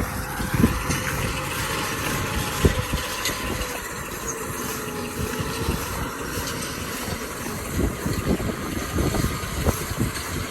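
Kubota M6040 tractor's diesel engine running steadily, with irregular low knocks and clatter over the engine noise.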